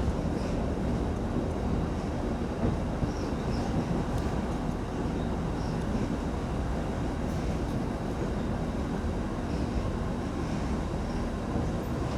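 Steady low rumble of a vehicle in motion, even throughout, with a faint hum and occasional light ticks.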